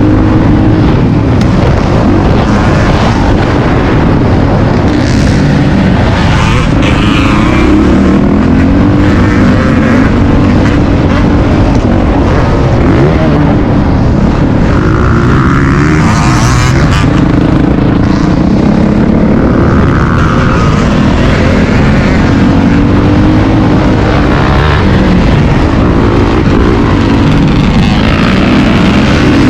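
Motocross dirt bike engine running hard, its revs rising and falling again and again as the bike is ridden around the track.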